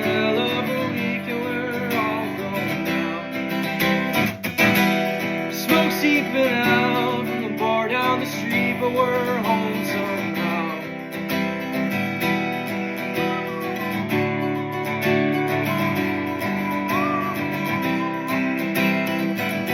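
Acoustic guitar strummed with a pick, playing the chords of a song without vocals.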